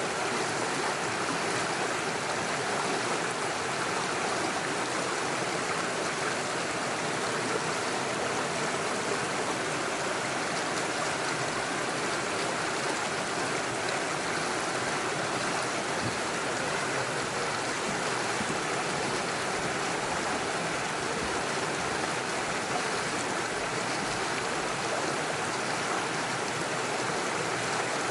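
Small stream running over stones: a steady, unbroken rush of water.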